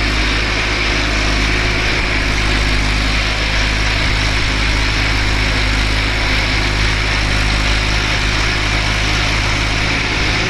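Massey Ferguson 1035 tractor's three-cylinder diesel engine running steadily, as it strains to pull a loaded water tanker.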